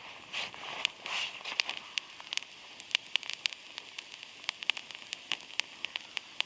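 Campfire crackling, with irregular sharp pops and a short hissing surge about a second in.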